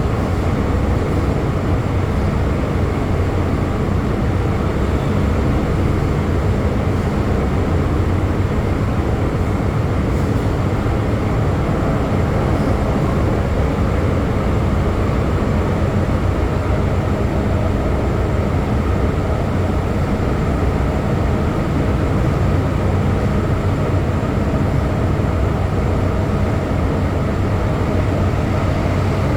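MTR M-train electric multiple unit running at steady speed between stations, heard from inside the car: an even, loud rumble of wheels on rail with a low motor hum, in the tunnel under the harbour.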